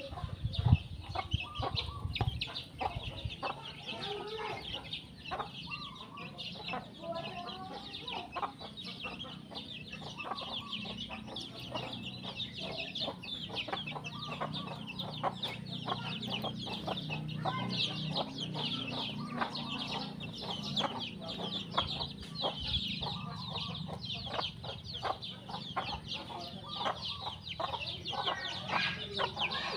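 Chickens clucking steadily over a dense chorus of many sparrows chirping, with a few low thumps in the first couple of seconds.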